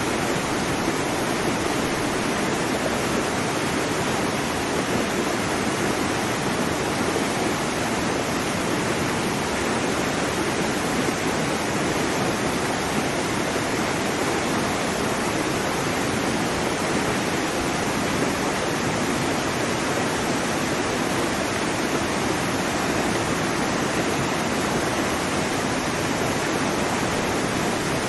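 Waterfall: a steady, unbroken rush of falling water with a full, deep body.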